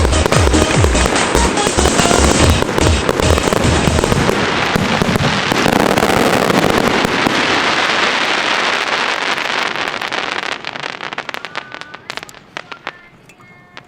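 A dense barrage of fireworks bursting and crackling, the climax of a fireworks show, with music's heavy bass beat under it for the first few seconds. After about ten seconds the barrage thins into scattered crackles and pops that die away.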